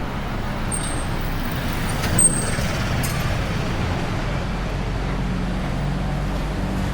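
Road traffic: a motor vehicle's engine running nearby with a steady low hum that grows stronger about two-thirds of the way in, and two brief high-pitched squeaks early on.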